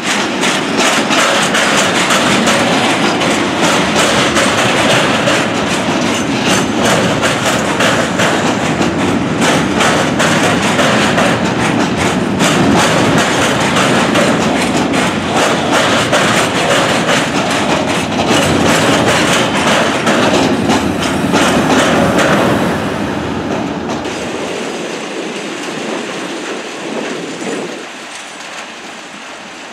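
Freight train of silo (covered hopper) wagons rolling past, its steel wheels clicking in a quick, uneven run of beats over the rail joints. The sound drops off about three-quarters of the way through and fades as the wagons move away.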